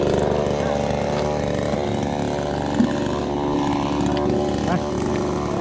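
Two-stroke chainsaw running steadily at high speed, cutting through storm-felled trees.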